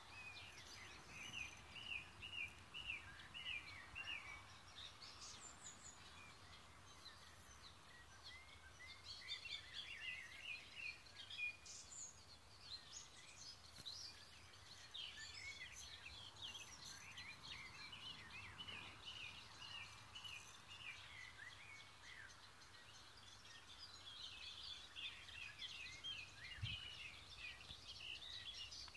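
Faint birdsong: several small birds chirping and trilling in bursts, with one soft low thump near the end.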